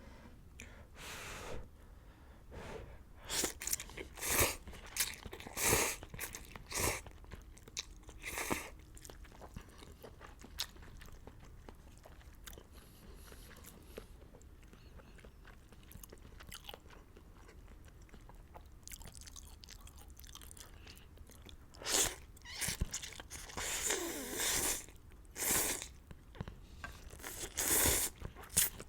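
Close-miked eating of beef hot pot noodles: bursts of wet chewing and biting, with a longer slurp-like sound about two-thirds of the way in. A quieter stretch separates the two busy spells.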